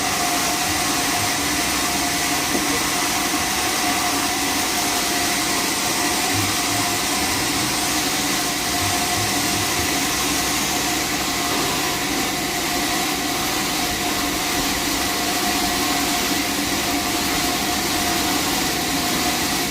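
Sawmill machinery running steadily: a continuous mechanical hum and hiss with a steady whine.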